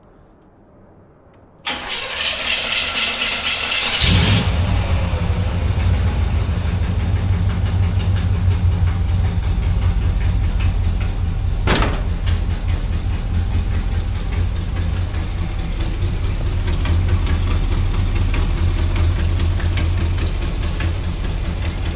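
Car engine cold-starting: the starter cranks for about two seconds, then the engine catches and settles into a loud, steady idle, with one sharp click about ten seconds later. The idle carries an exhaust sound that the owner thinks comes from a leaking header gasket.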